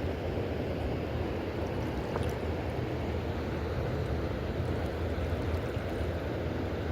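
Steady low rushing roar of river water pouring below a dam, unbroken throughout.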